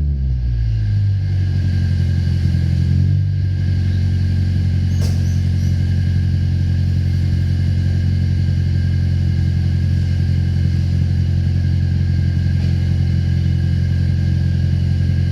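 1991 Toyota Corolla EE90's 4E-FE four-cylinder engine through an HKS muffler and 3-inch exhaust piping, dropping from a rev at the start and then idling steadily with a deep, even exhaust note.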